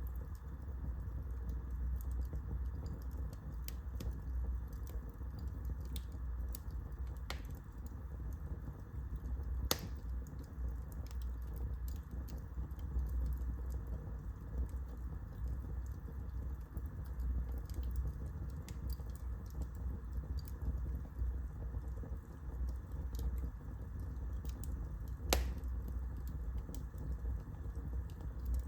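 Wood fire burning in a fireplace: a steady low rumble with scattered crackles and snaps, and two louder pops, one about ten seconds in and one near the end.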